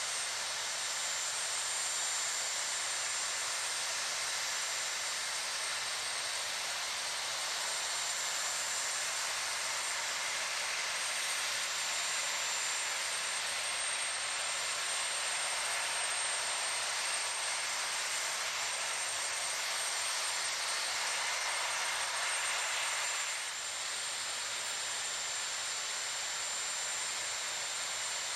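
Distant aircraft noise: a steady rushing hiss with a faint high whine, dipping slightly about 23 seconds in.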